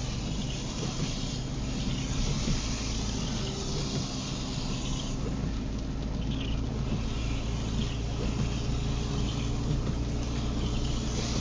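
Car driving on a wet road, heard from inside the cabin: a steady engine and road drone under a hiss of tyres and water that swells and fades.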